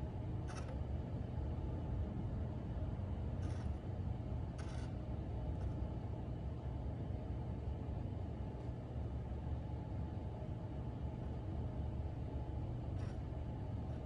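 A steady low outdoor rumble, with a few short scrapes or crunches spaced seconds apart: one about half a second in, two a few seconds in, and one near the end.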